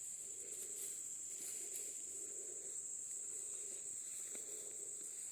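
Insects chirring in the surrounding vegetation: a steady, unbroken high-pitched drone.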